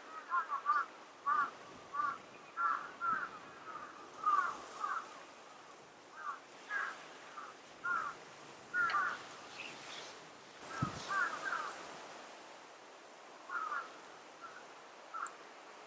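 Wild birds calling outdoors: a long series of short, repeated calls at irregular intervals, some single and some in quick clusters, with a short lull about two thirds of the way through.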